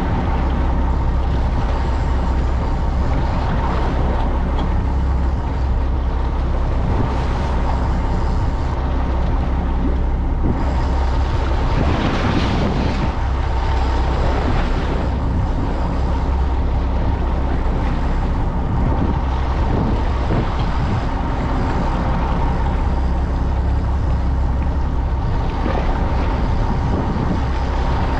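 Fishing boat's engine running steadily with a low hum, under wind and water noise, with a louder rush of noise about twelve seconds in.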